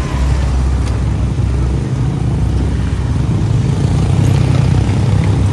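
Motorcycle engine running steadily with a low rumble while riding through street traffic.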